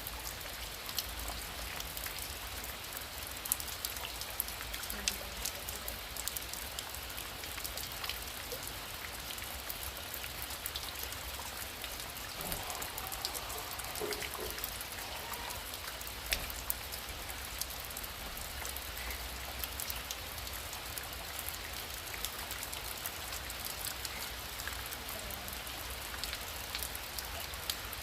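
Heavy rain falling steadily, with many individual drops ticking sharply against the steady hiss.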